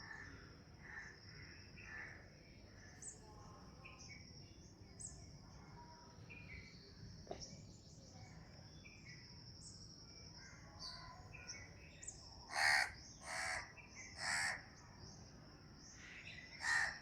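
A crow cawing: three loud caws close together about three-quarters of the way through, and one more near the end. Underneath are scattered small bird chirps and a steady high-pitched drone.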